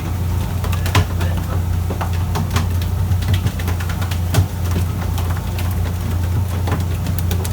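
Fishing boat's engine running steadily as a low drone, with scattered sharp clicks and knocks over it, the strongest about one and four and a half seconds in.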